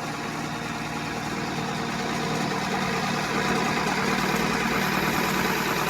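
Vehicle engine idling steadily, growing slightly louder over the few seconds.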